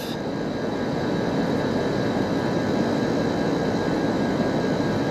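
Rooftop air conditioning unit running steadily, its compressor and condenser fan under test while the R22 charge settles.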